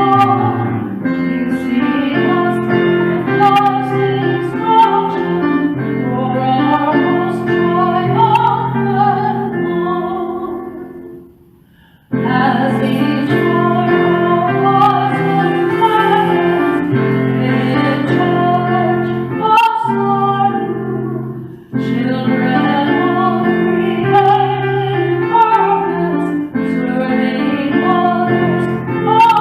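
A hymn sung by a voice, with piano accompaniment, in slow held notes. The music stops for about a second near the middle, dips briefly again about twenty-two seconds in, and then carries on.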